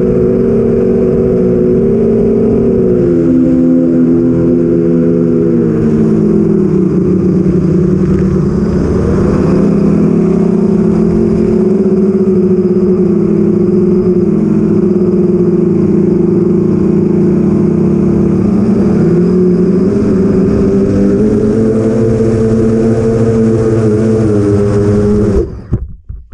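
Motors and 8-inch propellers of a 6S FPV quadcopter (BrotherHobby Avenger 2812 1115kv motors, Master Airscrew 8045 props) running, heard from the onboard camera: a loud multi-tone whine whose pitches rise and fall with throttle. The motor sound stops abruptly near the end.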